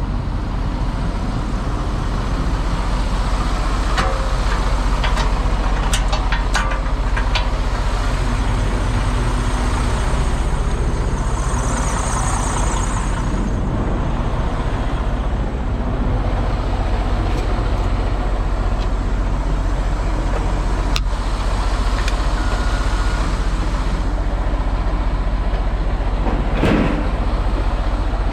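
Semi-truck engine running steadily, with a few sharp clicks and a brief hiss about twelve seconds in.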